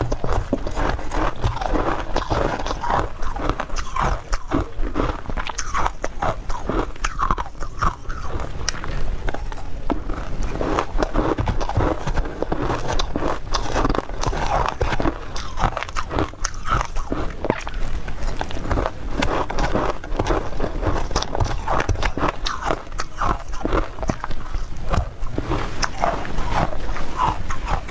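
Ice being bitten and chewed close to the microphone: continuous, irregular crunching of frozen ice.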